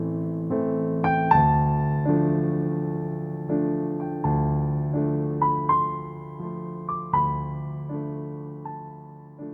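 Background music: a slow, soft melody of piano notes, each note struck and left to fade.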